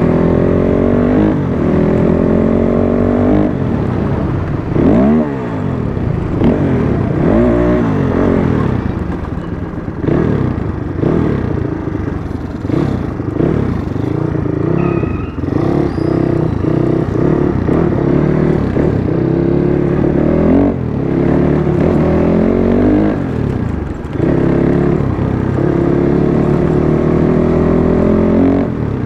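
Dirt bike engine running under way, its pitch climbing as it accelerates through the gears and dropping as the throttle closes, again and again, over road and wind noise.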